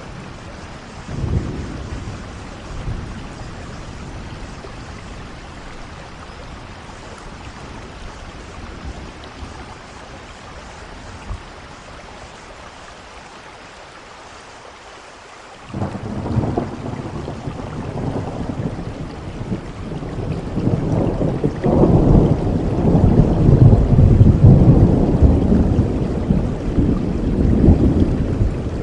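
Steady rain, with thunder: a short low rumble about a second in, then a long rumble that breaks in suddenly a little past halfway and builds, loudest near the end.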